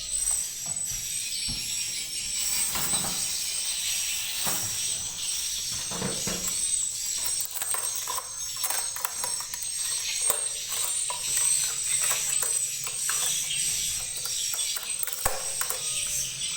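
High-pitched chirping and twittering of swiftlets, dense and continuous, with scattered sharp clicks.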